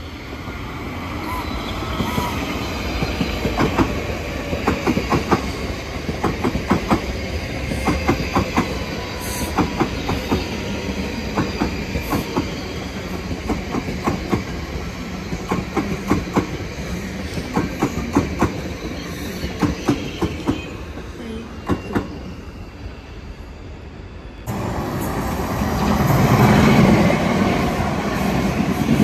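Electric multiple-unit passenger train running through the station, its wheels clicking over rail joints in a long run of sharp clacks over a steady rumble. About three-quarters of the way through the sound changes abruptly to a louder, fuller rumble of a train moving close alongside the platform.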